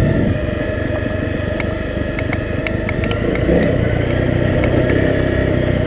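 Honda CRF250L's single-cylinder four-stroke engine running steadily while riding a dirt trail, with wind noise on the microphone and scattered light ticks.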